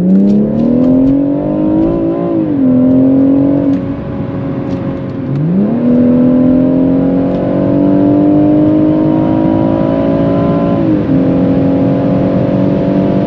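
BMW M140i's turbocharged B58 straight-six, with an HJS 300-cell downpipe and Akrapovic slip-on exhaust, accelerating hard, heard from inside the cabin. The engine note climbs, drops at an upshift about 2.5 s in, eases off briefly around 4 s, climbs again from about 5.5 s and drops at another upshift near 11 s. The exhaust has plenty of volume and bass under load.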